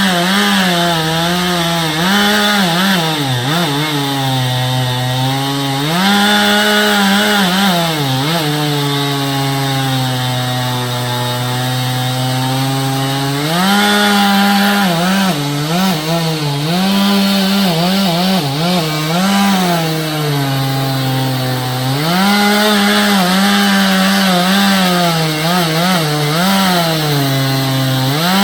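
Stihl two-stroke chainsaw cutting poplar wood: the engine pitch repeatedly drops as the chain loads up in the cut and climbs back to full revs, with two long steady stretches under load in the cut.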